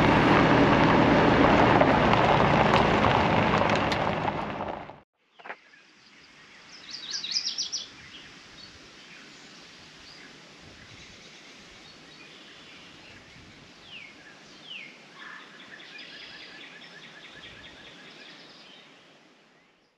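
Loud music that cuts off about five seconds in, followed by quiet outdoor ambience with birds chirping: a burst of chirps a couple of seconds after the cut, then a few short calls.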